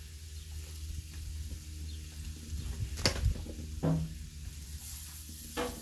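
Shrimp, scallops, onion and mushroom sizzling on a hot flat-top griddle as spaghetti sauce is poured over them, with a sharp tap about three seconds in.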